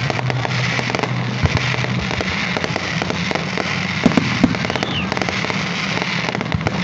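Fireworks display going off: a continuous crackling and popping of bursting shells, with a couple of louder bangs about four seconds in, over a steady low hum.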